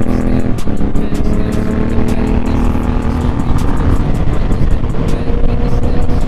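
Motorcycle engine running under way at fairly steady revs, its pitch creeping up a little now and then, with rushing wind noise.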